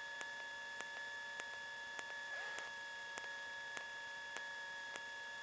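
Cockpit intercom feed with no talk: a steady electrical hum made of several high tones, with a sharp tick about every 0.6 seconds. A brief faint sound slides down in pitch a little past halfway.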